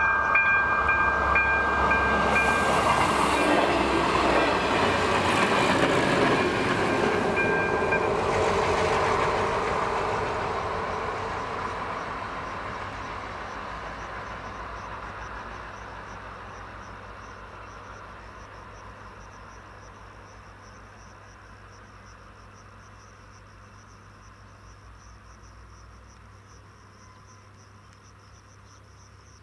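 A train rumbles away from the level crossing, its sound fading steadily over some twenty seconds. The crossing's warning bell rings with two steady tones and stops about eight seconds in, and crickets chirp as the train dies away.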